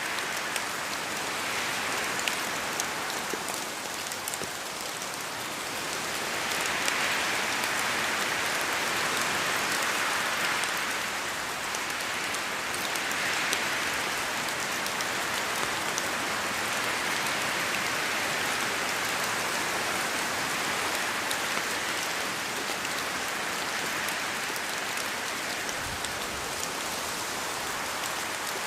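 Steady rain falling through a forest, a dense hiss with scattered drops ticking off the leaves. The sound swells and eases in slow waves every few seconds.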